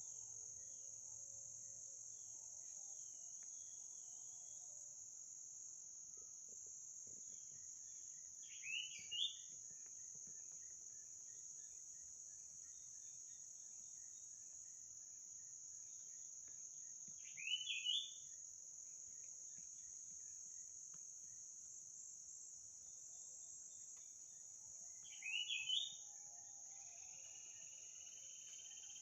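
Steady, high-pitched drone of crickets or other insects, with a short, quick, rising bird call repeated three times about eight seconds apart. A faint, wavering chorus of lower calls sits under it at the start and again near the end.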